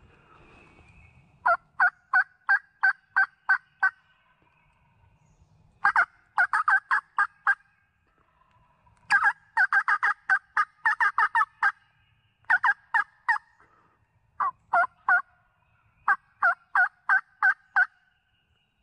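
Hen turkey yelps from a hunter's turkey call, aimed at a gobbler: runs of loud, sharp two-note yelps, each breaking from high to low, about three a second. There are six sequences, with a faster, crowded run near the middle.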